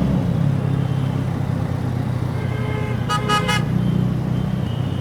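TVS Apache RTR 4V's single-cylinder engine running steadily at low revs through its exhaust in city traffic. About three seconds in, a vehicle horn gives a quick run of short honks.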